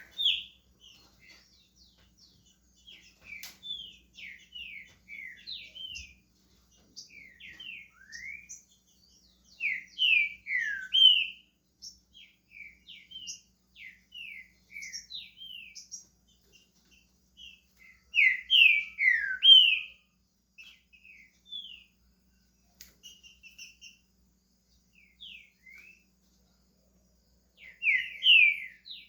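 Green-winged saltator (trinca-ferro) starting to sing: soft, scattered slurred whistled notes, broken by louder bursts of full phrases about ten seconds in, again around eighteen to twenty seconds, and near the end.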